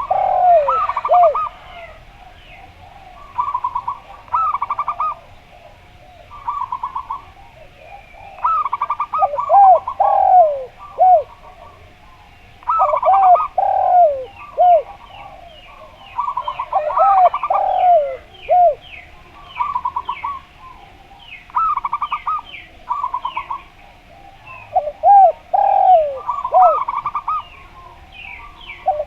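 Zebra dove (perkutut) and spotted dove (derkuku) cooing against each other in repeated phrases a few seconds apart. The zebra dove gives quick runs of short staccato coos, and the spotted dove gives lower, swinging arched coos. Faint quick chirps sound behind them.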